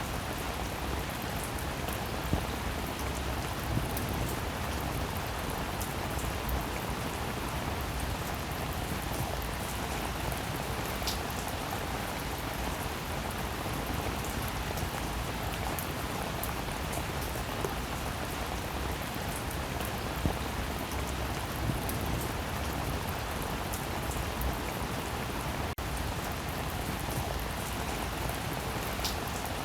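Steady rain falling, an even hiss with a few sharper single drop hits now and then. About 26 seconds in, the sound cuts out for an instant.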